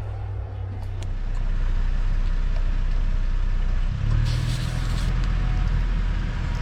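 Toyota Tacoma pickup engine running with a steady low hum, its pitch stepping up a little about four seconds in.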